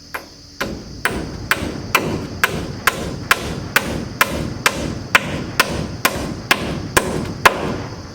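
Hammer pounding on wood framing in a steady rhythm, about two blows a second, some seventeen blows in all, stopping shortly before the end.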